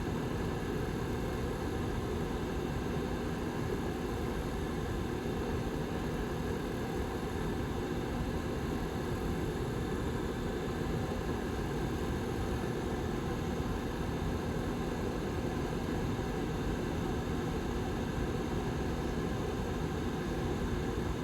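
Back fan of a Lasko 755320 ceramic tower heater running steadily: an even rush of air with a low hum under it.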